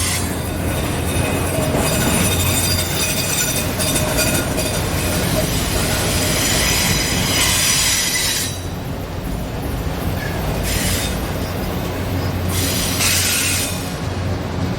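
A train passing over a two-track railway bridge, heard from underneath: a steady low drone from the vibrating bridge. High hiss with thin high ringing tones rides over it, drops away a little past halfway and comes back in short bursts.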